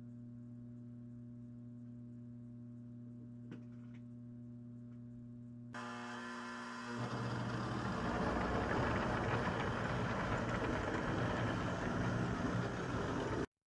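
A steady low electrical hum. About six seconds in, a louder, even running noise of a train builds up and holds steady.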